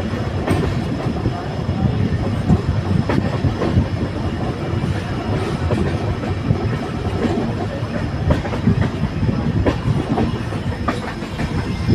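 Passenger train running along the track, heard from on board: a steady rumble with wheels clicking over rail joints now and then.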